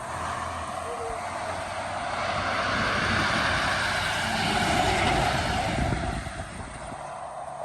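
A heavy truck passing by: tyre and engine noise swells to a peak about five seconds in, then fades quickly.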